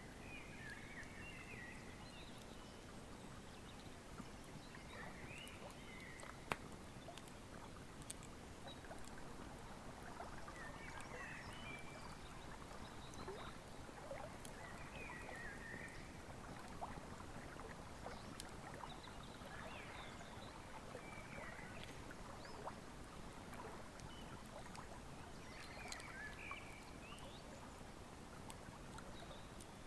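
Wood fire crackling with scattered small pops and one sharp pop about six seconds in, over the steady rush of a flowing river. A bird calls with short chirping phrases every few seconds.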